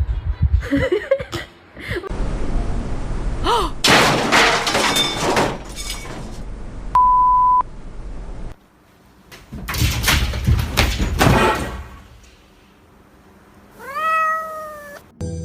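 A cat meowing in several short calls, ending in a long drawn-out meow that rises and falls near the end. Loud noisy stretches come in between, along with one short steady beep midway.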